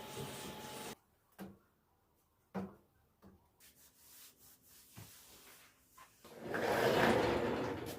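Household handling sounds: a few light knocks about a second and a half, two and a half and five seconds in, then a louder rubbing noise for about two seconds near the end.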